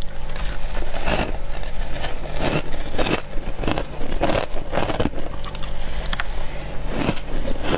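Frost being chewed with a mouth close to the microphone: a run of short crunches, one about every half second, over a faint steady low hum.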